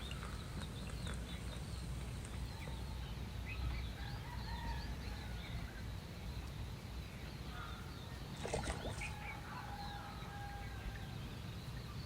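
Chickens clucking and small birds chirping in the open air, over a low steady rumble, with one louder call about two-thirds of the way through.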